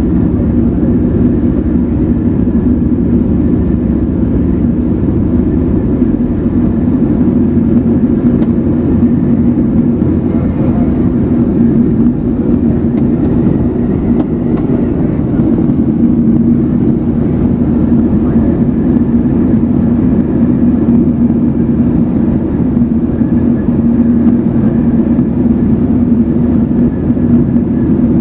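Evektor SportStar light aircraft's Rotax piston engine and propeller running at a steady, unchanging drone.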